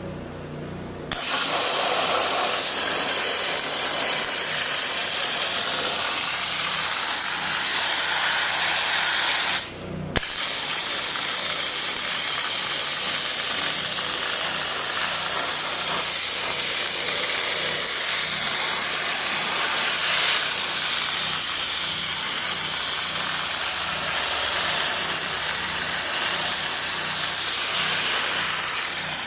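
Dry ice blasting gun hissing steadily as it blasts dirt off a car engine. It starts about a second in and stops for about half a second near ten seconds in.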